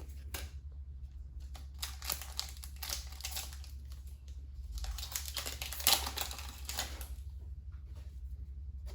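Trading cards and a foil booster-pack wrapper being handled: quick clicks, taps and rustles as cards are slid and flipped, densest in the middle with one sharper click about six seconds in.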